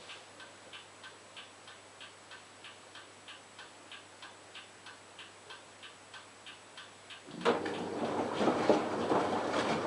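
LG F1443 washing machine running, with a light, regular ticking about three times a second. About seven seconds in, a much louder rumbling, rushing sound from the machine sets in.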